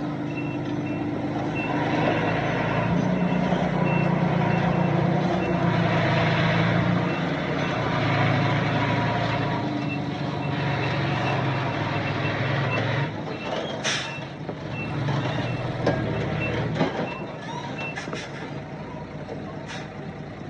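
Dump truck reversing, its backup alarm beeping steadily over the diesel engine's loud running; the engine eases off about two-thirds through, and a few sharp metallic clanks and a brief hiss follow near the end.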